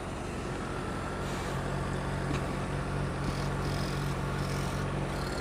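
Honda CBR600RR inline-four engine running at a steady, even hum.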